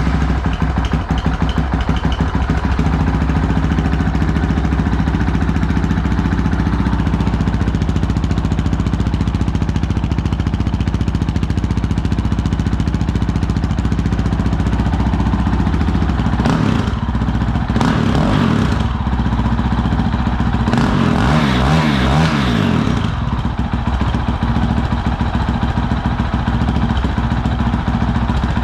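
2019 Honda CRF450L's single-cylinder four-stroke engine, breathing through a full Yoshimura exhaust, idling loudly just after a cold start. Its speed rises and falls briefly about two-thirds of the way in, and again a few seconds later.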